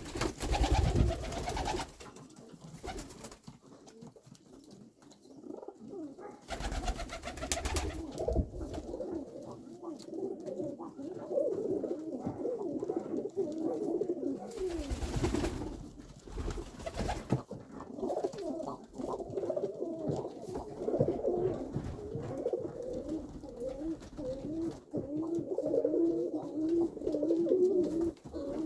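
Several pigeons cooing in low, wavering, overlapping calls. Short bursts of rustling noise break in near the start, about a quarter of the way through and around the middle.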